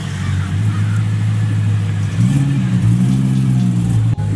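Car engine running at idle, with two short rises in pitch about two seconds in as it is lightly revved.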